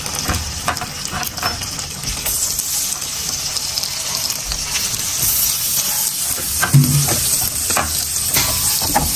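Raw potato slices sizzling in hot melted butter in a frying pan: a steady hiss with scattered pops and crackles, growing a little louder as more slices go in. A brief low bump about seven seconds in.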